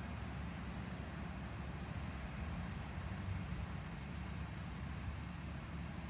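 A vehicle engine running steadily with an even low rumble.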